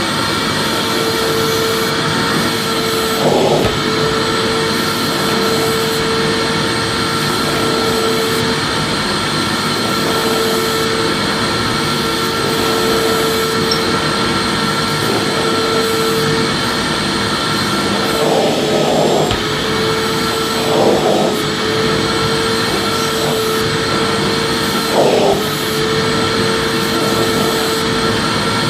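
Vacuum cleaner running steadily, its motor hum and air rush, with a few brief louder surges around 3 s, 18 s, 21 s and 25 s in.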